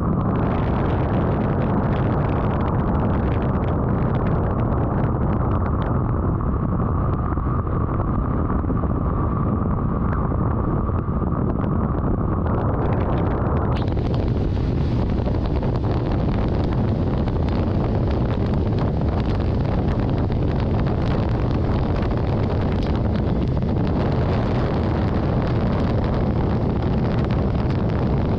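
Steady rumble and wind noise from a vehicle on the move on a rainy road. About halfway through, a brighter hiss suddenly sets in and carries on.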